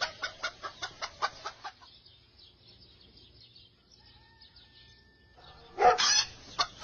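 A bird calling in a quick run of short notes, about five a second, for nearly two seconds. It falls quiet, then gives a louder call near the end.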